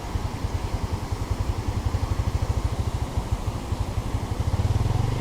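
An engine running with a steady, rapid low throb that grows a little louder near the end.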